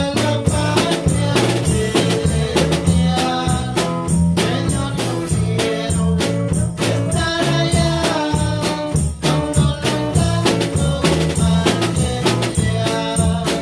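Live band music: a drum kit keeping a steady beat over bass and other instruments.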